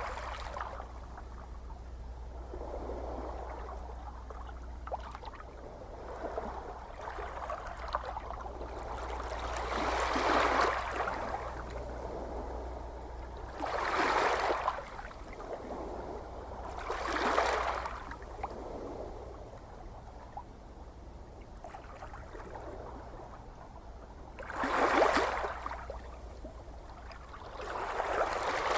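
Gentle ocean waves washing in and drawing back. Each wave is a swell of rushing water that builds and fades, with several coming a few seconds apart and the biggest near the end. A steady low hum runs underneath.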